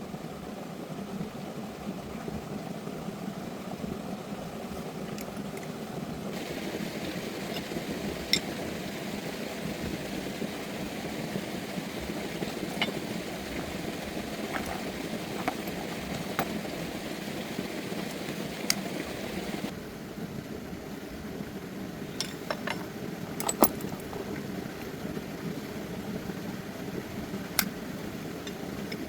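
A steady mechanical hum, with scattered light clicks and taps.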